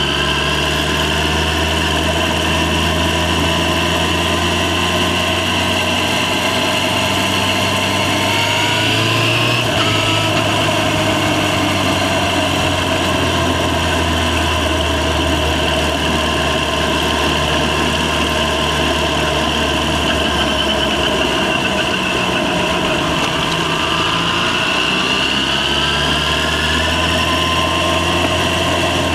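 Yamaha FZ6's 600 cc inline-four engine running steadily while riding, its pitch climbing about nine seconds in and again near the end as the bike speeds up.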